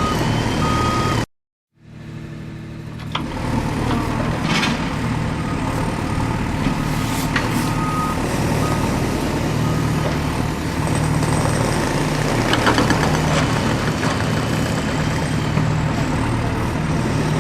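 Diesel engines of a dump truck and an excavator running steadily, with a reversing beeper pulsing at the start and again about halfway, and a few knocks. The sound drops out for half a second near the start.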